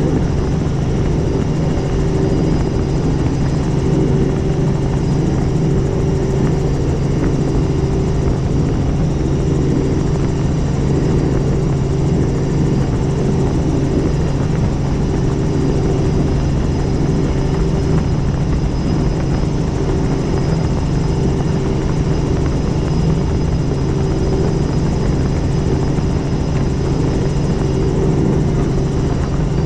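Helicopter in flight, its engine and rotor running steadily: a constant low tone with a fainter higher tone over a steady rush of noise, with no change in pitch or level.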